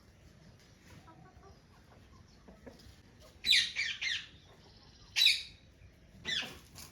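Birds calling: after a few quiet seconds come three bouts of loud, harsh, high-pitched calls, a second or so apart.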